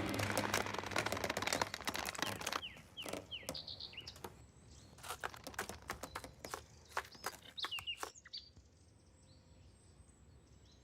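Background music fading out, then scattered short bird chirps mixed with sharp clicks, fading to near silence for the last couple of seconds.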